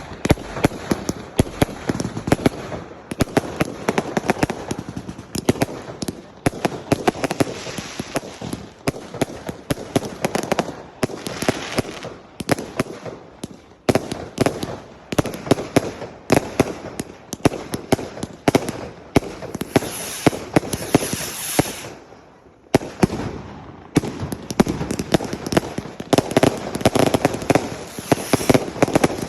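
Fireworks going off in a dense, continuous barrage of rapid bangs, with two short lulls, about halfway through and about three-quarters through.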